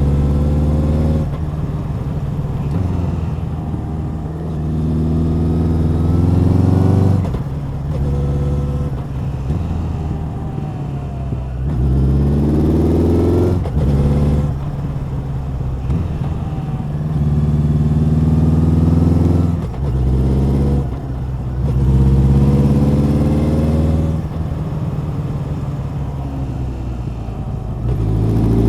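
Honda CB1100's air-cooled inline-four engine and exhaust under way, repeatedly revving up in pitch over a few seconds and then dropping sharply as it shifts gear, about five times.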